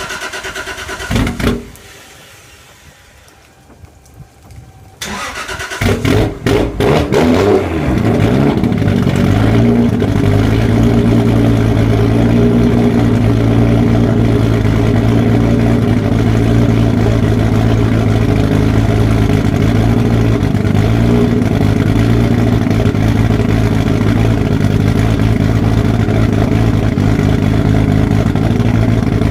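Toyota Supra engine being started: after a short hum and a knock in the first two seconds, the starter cranks about five to six seconds in, the engine catches with a brief rev flare, then settles into a loud, steady idle.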